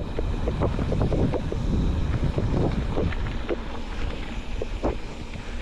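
Vehicle driving over a rough road, with a steady low rumble, wind buffeting the microphone and frequent irregular knocks and rattles from the bumps.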